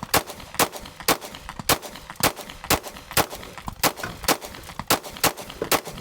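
Glock pistol fired rapidly from a 32-round extended magazine, a steady string of about a dozen single shots, roughly two a second.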